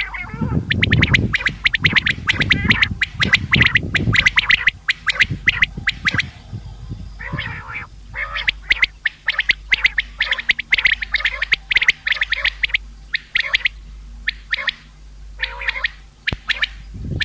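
Common quail calling: fast runs of sharp, repeated notes broken by short pauses, with a low rumbling noise underneath for the first six seconds.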